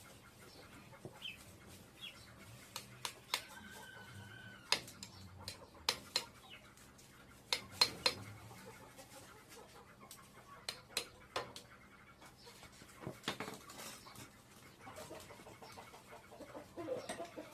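Scattered sharp metallic clinks and taps, irregularly spaced, with a short held call about four seconds in.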